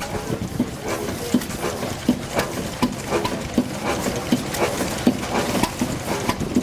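A Ruston & Hornsby 5XR stationary engine running slowly, with a regular thud about one and a half times a second and lighter clicks between the beats.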